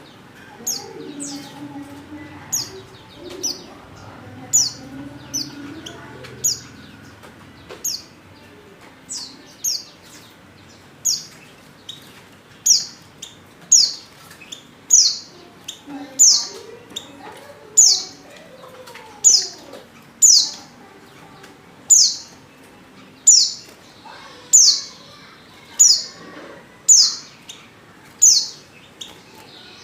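Female white-eye (pleci) repeating a short, high, downward-sliding chirp about once a second, growing louder after the first few seconds: the call of a female in breeding condition calling for a male.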